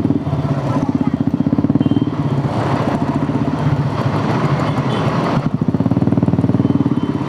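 Motorcycle engine running at low revs with an even, pulsing note, as the bike creeps through a traffic jam.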